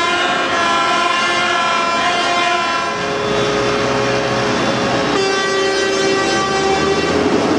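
Several tractor horns sounding together in long, held, overlapping blasts, the mix of tones changing about three seconds in and again about five seconds in, over a low engine rumble.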